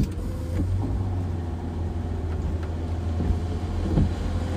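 Steady low rumble of a car idling, heard inside the cabin.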